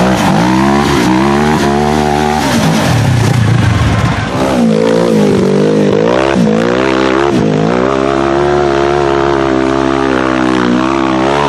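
Off-road side-by-side (UTV) engine revving hard as it is driven. The pitch climbs and drops several times with throttle and shifts, then holds fairly steady in the last few seconds.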